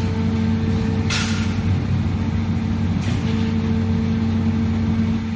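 Plastic injection moulding machine running a two-cavity milk powder lid mould: a steady machine hum, with short hisses of air twice, about a second in and three seconds in.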